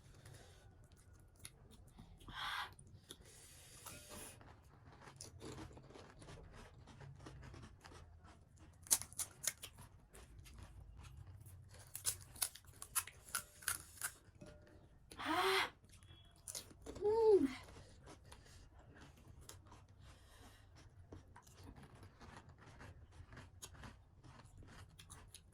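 Crisp panipuri shells cracking and being chewed: scattered sharp crunches and clicks, with two short vocal sounds a little past the middle, the second falling in pitch.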